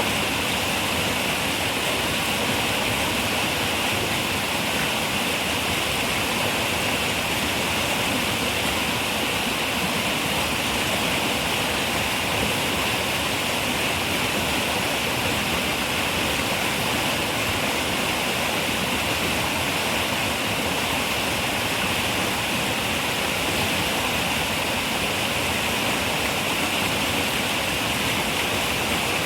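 River water running over rocks, a steady, unbroken rushing with a bright hiss.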